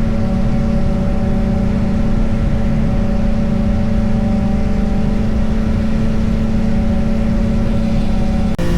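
Yamaha XSR900's three-cylinder engine running at a steady, unchanging engine speed while cruising, with low wind and road rush on the camera's microphone. The engine note changes abruptly just before the end.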